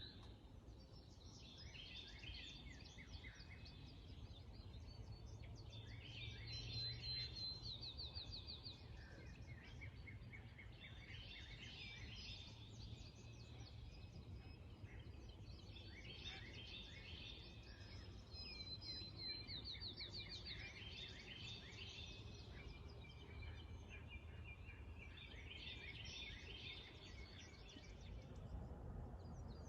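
A songbird singing, repeating a short phrase of quick trilled notes every few seconds, over a faint steady low rumble.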